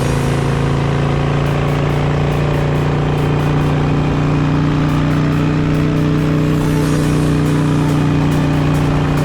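Harley-Davidson Sportster's V-twin engine running steadily under way, its note lifting slightly about four seconds in. Music plays along with it.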